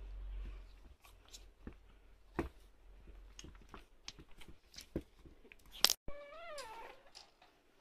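Shih Tzu puppy nipping and chewing at a person's hand, with small scattered clicks and knocks of teeth and paws. About six seconds in, the puppy gives one short whine that rises and falls.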